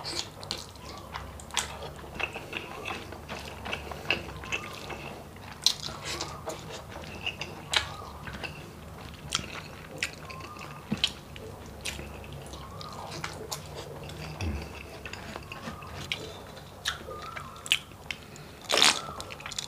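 Close-miked wet chewing, lip smacks and mouth clicks of a person eating soft, gelatinous beef balbacua skin and rice by hand, with a few brief hums. Near the end there is a louder gulp as he drinks from a glass.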